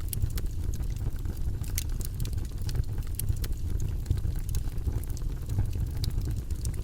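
Campfire burning with a steady low rumble of flames and irregular sharp crackles and pops from the wood.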